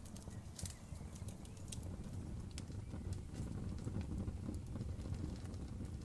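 Campfire burning, crackling with scattered sharp pops and snaps over a steady low rumble.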